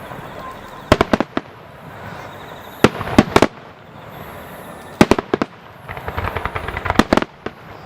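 Aerial fireworks shells exploding in clusters of sharp bangs about every two seconds, with a rapid run of many small crackling reports around six seconds in.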